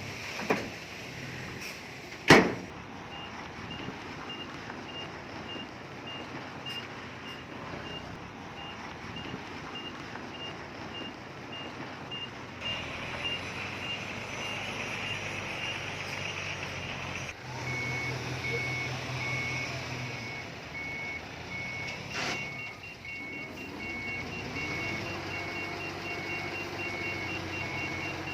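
Reversing alarms on heavy earthmoving machines beep in quick repeats, over diesel engines running. A second, lower-pitched alarm joins about halfway through. Two sharp bangs come in the first couple of seconds, and an engine picks up speed near the end.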